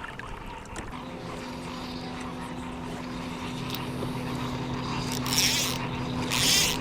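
Quadcopter camera drone's propellers humming steadily, a pitched drone that sets in about a second in. Near the end there are two short, louder bursts of hissing noise.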